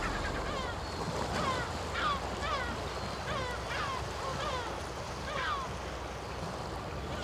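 Birds calling: a series of short, downward-slurred calls, repeated roughly every half second, over a steady wash of wind and surf.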